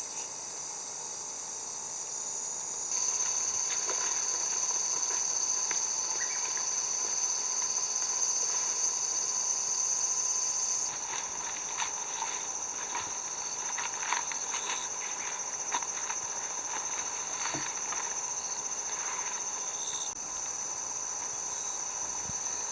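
A steady, high-pitched chorus of insects. It steps up in loudness about three seconds in and drops back around eleven seconds, with scattered light taps and clicks.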